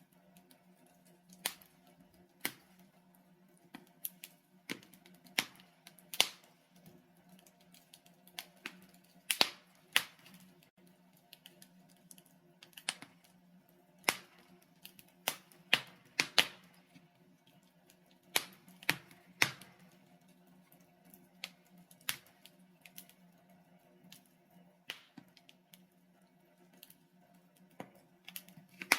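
Logs burning in a fireplace, crackling: irregular sharp snaps and pops, sometimes several in quick succession, over a faint steady low hum.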